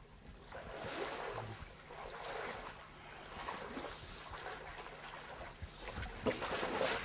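Knee-deep swamp water sloshing and splashing as people wade through it, in uneven surges, with a couple of sharper splashes near the end.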